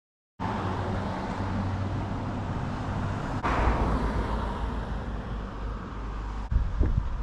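Steady engine hum and road noise of a moving car, changing abruptly twice.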